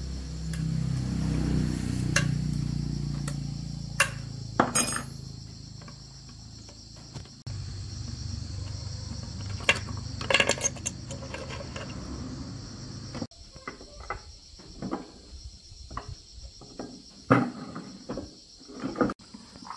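Crickets chirping steadily. Over them a low engine hum drops in pitch and cuts off suddenly about 13 seconds in. Sharp metal clinks and knocks follow, like tools on metal.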